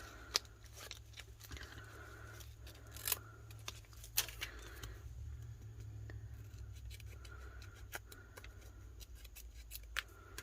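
Scissors snipping, with scattered clicks and scrapes of paper and tape being handled on a craft table.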